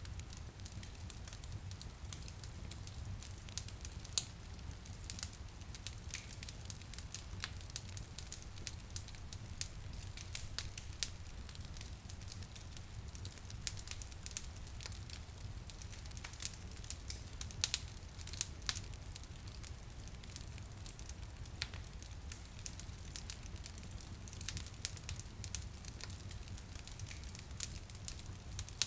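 Wood fire crackling in a fireplace: a steady run of small sharp pops and snaps, with a few louder pops, over a steady low rumble.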